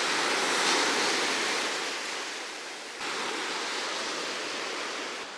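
Sea surf washing onto a beach: a wave swells and eases off, then the wash jumps abruptly louder about three seconds in.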